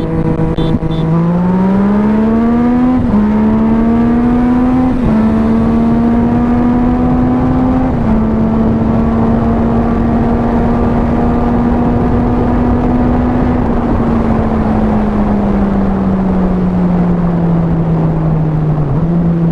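Sport motorcycle engine with an aftermarket exhaust pulling hard through the gears. The pitch climbs and drops sharply at two upshifts in the first five seconds, then holds a steady cruise. From about two-thirds of the way in it slowly winds down as the rider eases off.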